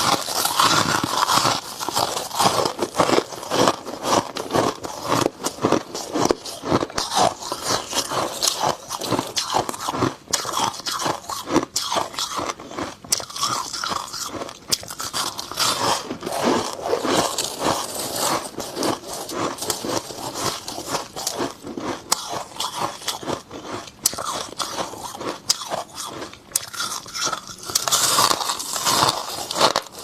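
Close-up crunching and chewing of dry freezer frost, a continuous run of rapid crisp, crackly crunches with bites throughout.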